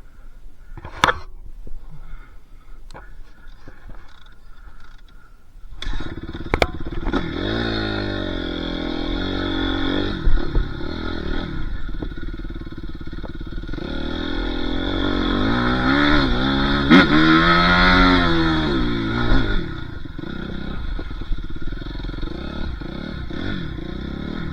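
Dirt bike engine, faint at first, becoming loud about six seconds in and revving up and down over and over, loudest a few seconds before the end, then running more steadily.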